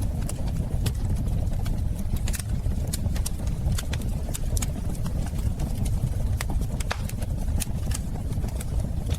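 Wood fire in a fireplace crackling, with irregular sharp pops, several a second, over a steady low rumble of the burning.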